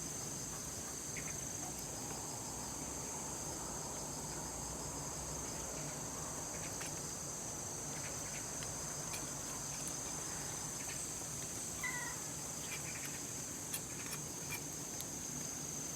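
Steady, high-pitched chorus of crickets, with a few faint ticks and one brief faint call about twelve seconds in.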